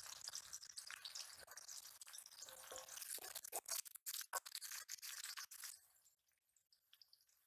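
Sliced onions and garlic sizzling and crackling faintly in hot oil in an aluminium wok, with a wooden spatula scraping as it stirs them. The sizzle drops away about six seconds in.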